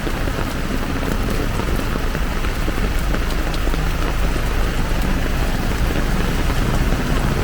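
Heavy downpour falling steadily, a dense, even hiss of rain with a low rumble beneath.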